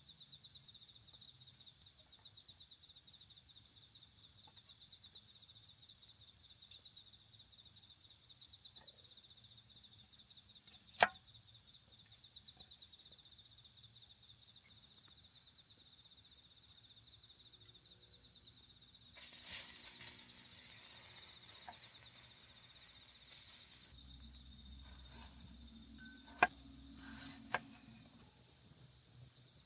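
Crickets chirping steadily in a fast, high-pitched pulsing trill. Three sharp clicks or snaps cut through: one about a third of the way in and two close together near the end, with a short stretch of rustling hiss in between.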